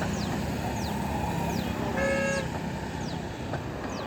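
Express train's coaches rumbling steadily past on the track, with one short horn toot about two seconds in and a faint high chirp repeating about every half second.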